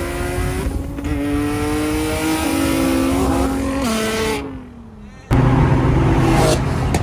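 A car engine pulling hard under acceleration, its pitch climbing and dropping back at each of several quick gear shifts, then falling away as the car backs off. About five seconds in it cuts sharply to a loud, steady engine drone.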